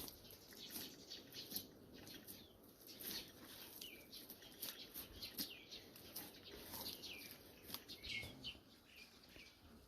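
Birds chirping faintly: many short, irregular chirps, several sliding downward in pitch.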